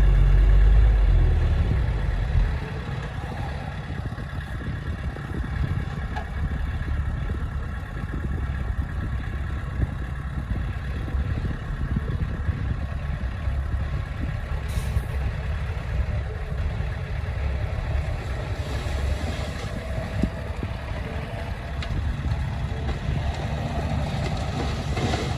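Heavy diesel engine of earthmoving equipment running, loud for the first couple of seconds, then easing off and running on steadily.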